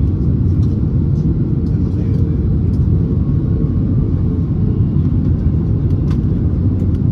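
Airbus A321neo cabin noise in flight: the steady, deep rumble of the engines and airflow heard from a passenger seat, with a few faint ticks now and then.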